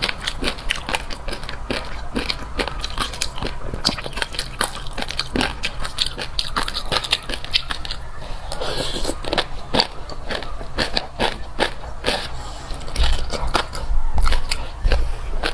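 Close-miked eating of fish roe: a dense run of crisp little pops and crackles as the roe eggs burst between the teeth, with chewing.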